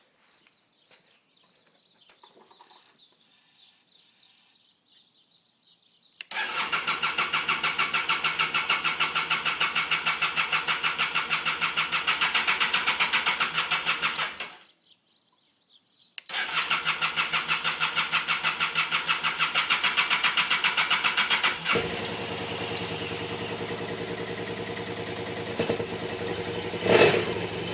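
BMW F800GS parallel-twin engine being cranked by its electric starter: a long, fast, even churning that does not fire, a short pause, a second crank, and then the engine catches and settles to idle, with one brief blip of the throttle near the end. This is a hard-starting engine that needs long cranking before it runs.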